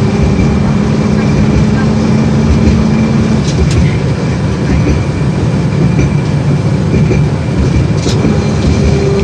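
LVS-86K tram running along the track, heard from inside the car: a steady, loud rumble of wheels and running gear. A steady hum stops about three seconds in, and there are a couple of sharp clicks.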